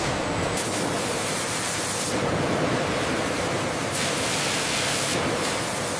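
Steady rushing hiss of spraying water, its upper hiss brightening and dulling a few times.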